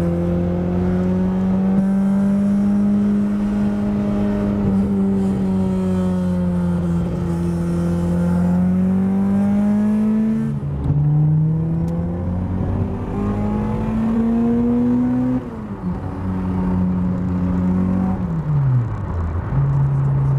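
Honda B16A DOHC VTEC four-cylinder with Skunk2 Stage 1 camshafts pulling hard through the gears, heard from inside the cabin: the engine note climbs at high revs, drops sharply at gear changes about halfway through and again around three quarters of the way, then falls and settles lower near the end as the driver eases off.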